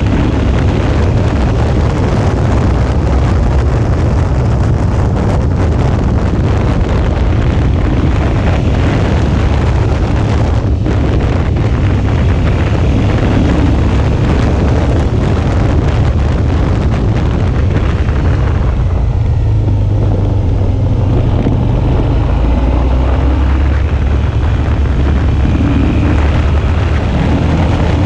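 Suzuki V-Strom 650's V-twin engine running steadily while the motorcycle is ridden, with wind noise on the action camera's microphone.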